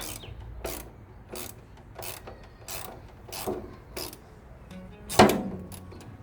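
A ratchet wrench turning a fender bolt loose, its pawl clicking in even strokes about one and a half a second. About five seconds in there is a single louder, sharp knock.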